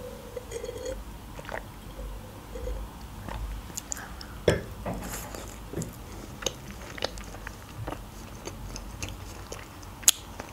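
Close-up chewing and biting of chicken in a sticky sweet-and-sour sauce: soft wet mouth clicks and smacks at an irregular pace, with one sharper click near the end.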